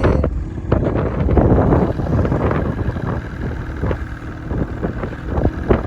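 Snowmobile engine running during a ride, with wind buffeting the microphone.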